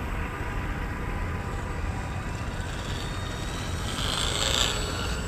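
Electric motor and propeller of an FMS P39 Cobra II RC airplane whining in flight, its pitch rising around the middle, under heavy wind noise on the microphone.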